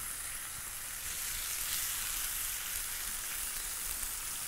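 Diced yellow onion sautéing in avocado oil in a frying pan, with bacon frying in the pan beside it: a steady sizzle.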